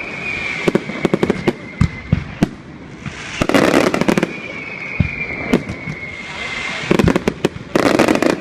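Fireworks display: a series of sharp bangs and crackles, bunching into two dense volleys, with a long whistle falling slightly in pitch twice between them.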